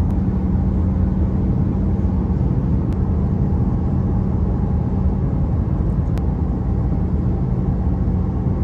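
BMW i8 driving, a steady low rumble of road and drivetrain noise with a steady hum running through it.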